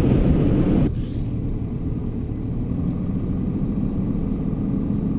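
Steady low engine and road rumble of a pickup truck being driven. About a second in, a louder, wider rush cuts off abruptly, leaving the steadier rumble.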